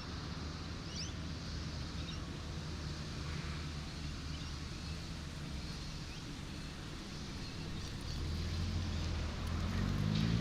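Road vehicle engine rumbling low and steady over an even haze of surf noise. The engine grows louder near the end, its note rising.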